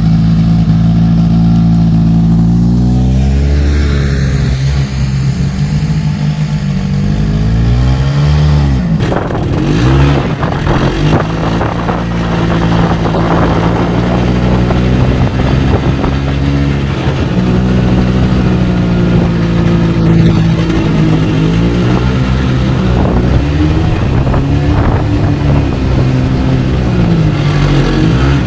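Subaru Forester's engine running under load, its pitch rising and falling again and again as the revs go up and down. A rushing noise with scattered clicks comes in about a third of the way through.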